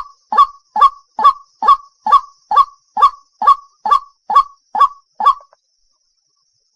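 Waterhen calling: a rapid series of short, harsh calls, about two a second, that stops about five seconds in.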